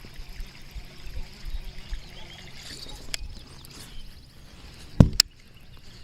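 Water lapping and trickling against a fishing kayak, with two sharp knocks on the hull close together about five seconds in.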